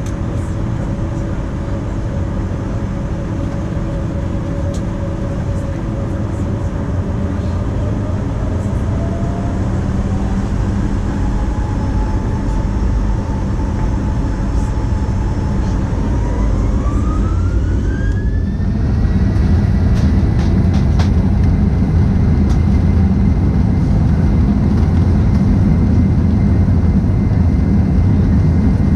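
Boeing 737-900's two CFM56-7BE turbofan engines heard from inside the cabin, spooling up to takeoff thrust: a whine rises steadily in pitch over about ten seconds and then holds at one high note as the sound grows louder, over a constant low rumble.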